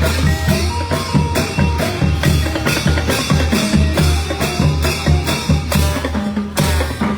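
Thai brass band (trae wong) playing a lively march-like tune, with a steady beat on bass drum and percussion under sustained brass notes.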